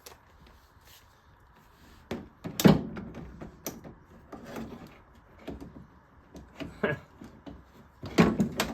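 Hand tools knocking and clanking: a socket on a 6-inch extension being worked in against the header bolts, a string of separate knocks with the loudest about two and a half seconds in and a quick cluster near the end.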